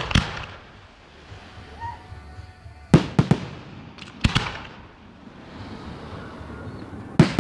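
Aerial fireworks bursting: sharp bangs in clusters, a few at the start, a group about three seconds in, more about four seconds in and again near the end, with faint crackle between.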